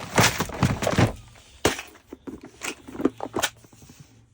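A lock kit being opened and rummaged through: a quick run of clicks, knocks and rattles from small loose lock wafers and the case, busiest in the first second and thinning out after.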